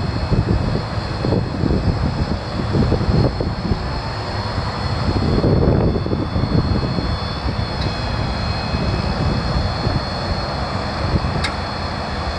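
Ford F550's 6.7-litre turbo-diesel engine running steadily, with a thin high whine over the drone and a short sharp tick near the end.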